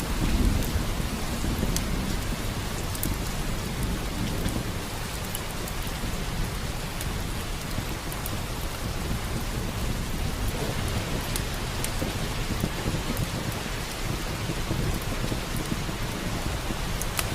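Steady heavy rain with a low rumble of thunder, strongest about the first second, and a few scattered sharp ticks.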